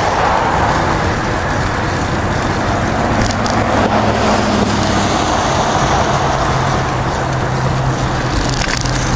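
Steady road traffic noise: cars passing close by, with the low hum of engines shifting as vehicles come and go.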